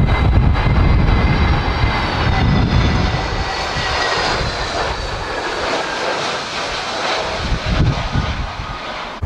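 Jet airliner's engines on approach to land, a loud whine over a broad rush that slowly drops in pitch. Gusts of strong wind rumble on the microphone at the start and again near the end.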